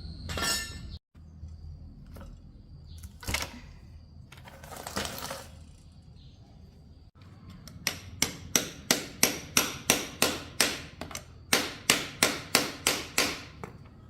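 Hammering in motorbike repair work: a few scattered knocks and scraping sounds, then a steady run of sharp hammer blows, about three a second, with a short break partway through.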